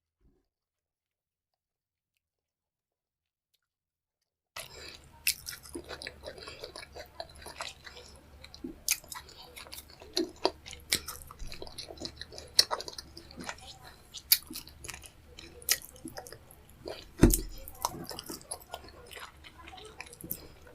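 Close-miked chewing and biting of food, with wet clicks and crackly snaps at an irregular pace. It starts after about four and a half seconds of dead silence.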